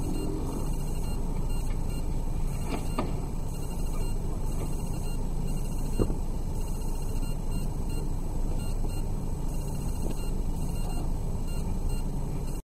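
Steady low engine hum heard from inside a stationary car's cabin, with a couple of short sharp knocks, the loudest about six seconds in.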